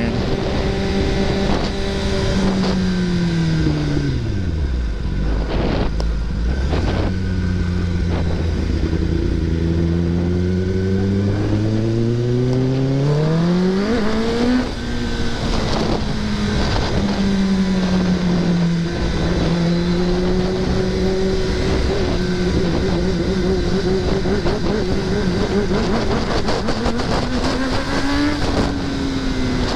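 Kawasaki ZX-10R inline-four sport bike engine under way: the revs fall off about three to five seconds in, then climb in one long pull to about fourteen seconds, dip briefly at a gear change, and hold fairly steady after that with small rises and falls.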